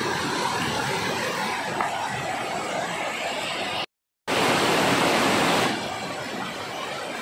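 Steady rushing of a waterfall, a continuous noise of falling water. It cuts out for a moment about four seconds in, comes back louder for a second or so, then settles to a lower level.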